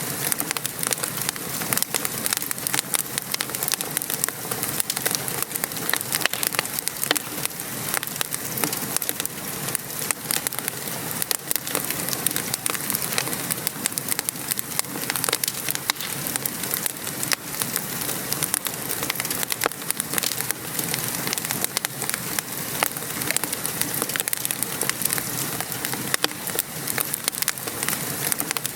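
Steady rain falling, an even hiss, mixed with a wood fire crackling in many small sharp pops.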